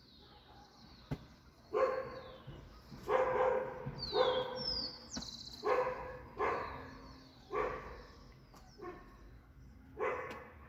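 A dog barking, about eight single barks spaced a second or so apart, with birds chirping faintly above.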